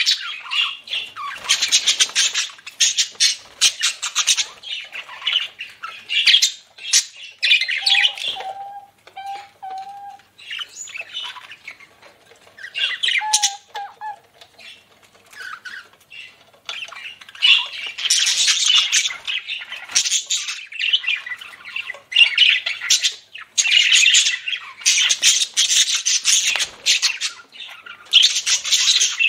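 Budgerigars chattering and squawking in a rapid, busy stream of calls. The chatter thins to scattered calls and a few short clear whistled notes about a third of the way in, then grows dense again for the second half.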